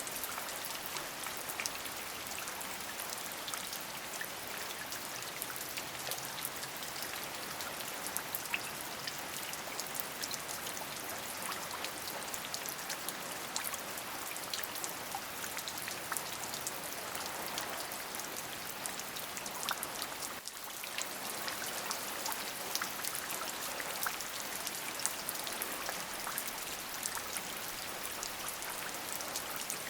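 Steady rain: an even hiss with many small, sharp drop ticks on top. The level dips briefly a little over two thirds of the way through.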